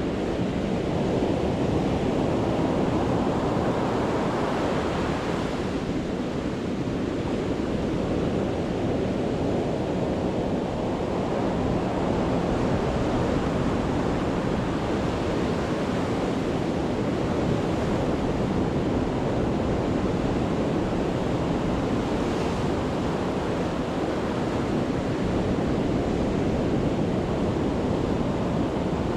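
Sea waves breaking on the shore at high tide, a steady, unbroken wash of surf with a deep rumble and no single standout crash.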